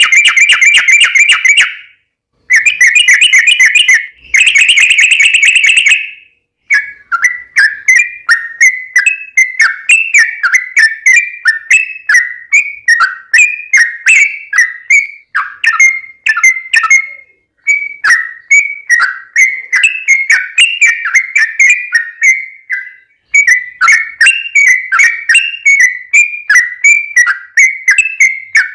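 Yellow-vented bulbul (trucuk) song: three bursts of fast rattling chatter in the first six seconds, then a long run of quick, bubbly whistled notes at about three a second, broken by short pauses.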